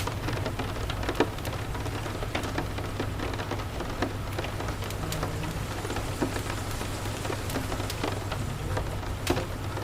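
Steady rain, with a low, even rumble underneath and scattered sharp crackles of a wood fire.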